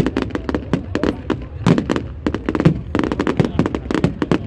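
Fireworks display going off in a dense run of sharp bangs and crackles, several a second, with heavier booms among them.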